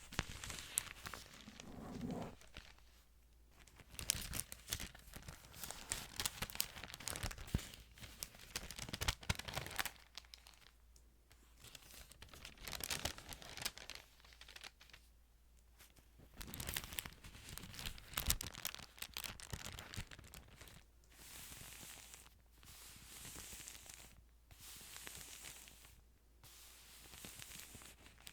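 Thin Bible pages being turned and handled, crinkling and crackling in irregular bursts with short pauses between them; near the end, a run of short swishes about once a second.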